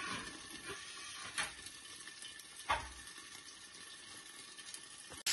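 Potato-stuffed baati frying in oil in a pan under a glass lid: a faint, steady sizzle, with two light clicks about a second and a half and nearly three seconds in.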